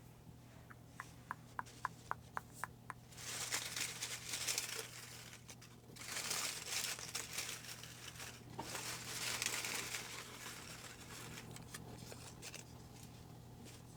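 A quick run of about nine light clicks, then three stretches of paper crinkling and rustling as a hand rummages through folded paper name slips in a hat.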